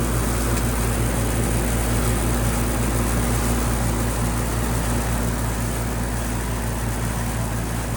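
Old Whirlpool heat pump's outdoor unit running in heat pump mode: a steady low hum of several even tones with the fan blowing.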